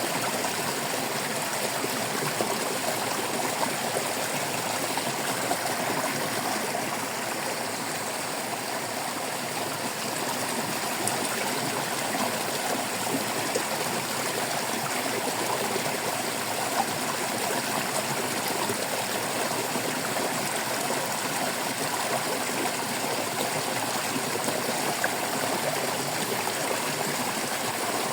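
Stream water babbling, a steady even rush of flowing water.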